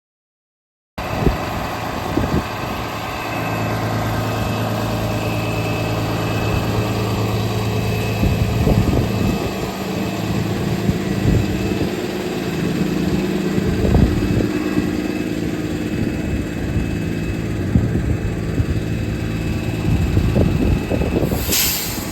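A vehicle engine running steadily with a low hum, with irregular low rumbles throughout and a short burst of hiss near the end.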